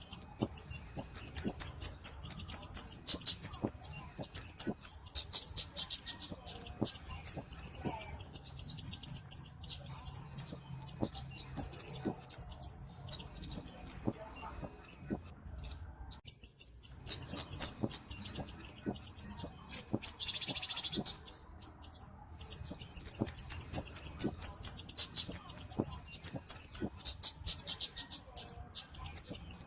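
Flowerpecker song: long runs of rapid, thin, high-pitched chirps, many a second, broken by a few short pauses.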